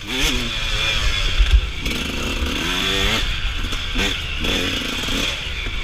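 Suzuki RM125 single-cylinder two-stroke dirt bike engine under riding load, its pitch rising and falling repeatedly as the throttle is worked on and off.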